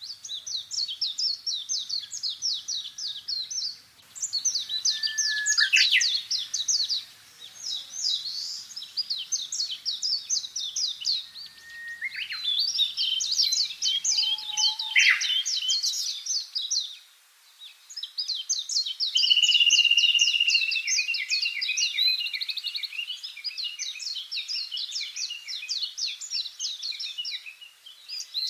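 Songbirds singing in long runs of rapid, high chirps, broken by short pauses, with a few lower downward-sliding calls mixed in.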